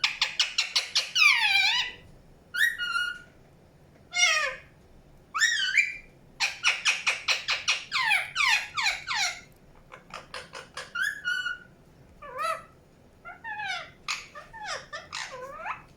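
Indian ringneck parakeet chirping and calling: single calls that glide in pitch, with fast runs of short chirps at the start and again around the middle.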